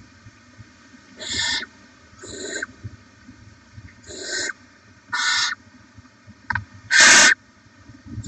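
Barn owl nestlings giving harsh hissing begging calls: five short hisses about a second apart, the last the loudest, with a sharp click just before it.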